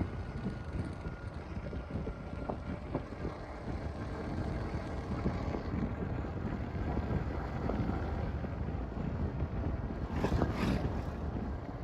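Wind rushing over the microphone on a moving motorcycle, over a steady low rumble, with a louder gust about ten seconds in.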